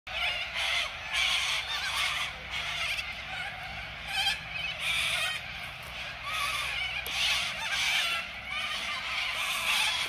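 A flock of birds calling over and over, the calls overlapping and repeating about every half second to second, over a faint steady low rumble.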